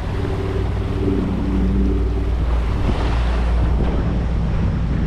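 Volvo Penta D3 110 hp five-cylinder marine diesel running steadily under load at about 2,300 rpm, a low even rumble, with wind buffeting the microphone and sea water rushing past the hull.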